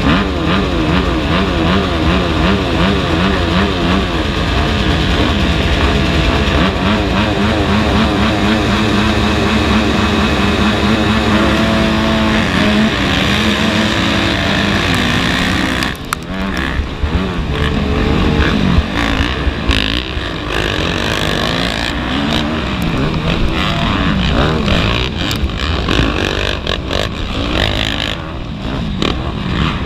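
Several off-road motocross bike engines revving up and down as they race, their pitches weaving over one another. About halfway through the sound turns rougher and more ragged.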